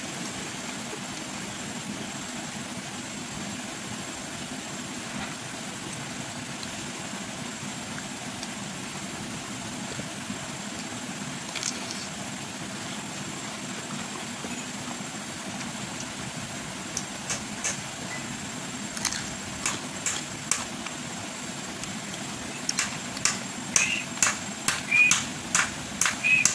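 Steady background hiss. About two-thirds of the way in it is joined by crisp, crunchy chewing of raw vegetables in the mouth. The chews come faster and louder near the end.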